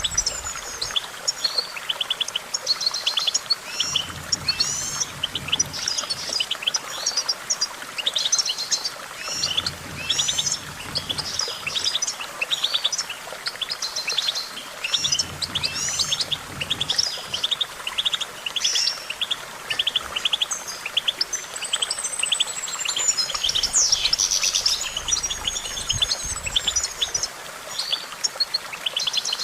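European goldfinch singing: a continuous, fast stream of twittering trills, buzzes and chirps.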